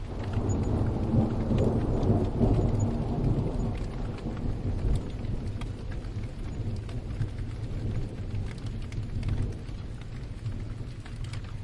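A roll of distant thunder swells in at the start, is loudest over the first few seconds and slowly dies away, over steady rain with scattered drips.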